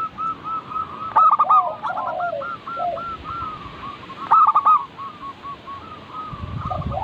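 Zebra doves (perkutut) cooing: loud bursts of rapid staccato coos about a second in and again about four and a half seconds in, trailing into softer, overlapping coos from several birds at different pitches. A low rumble comes in near the end.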